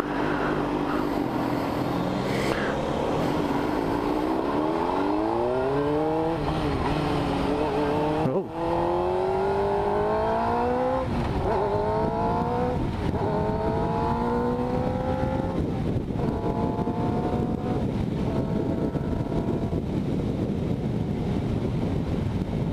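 Motorcycle engine accelerating up through the gears, the revs climbing and then dropping at each of several upshifts, over steady wind rush on the microphone. The bike has just been converted to a GP (reverse) shift pattern.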